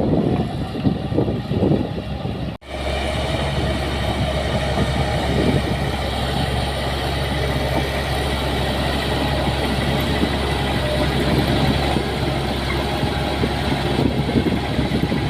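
Heavy diesel earthmoving machine running steadily with a metallic rattle. The sound cuts out for an instant about two and a half seconds in, then resumes as a steady engine drone.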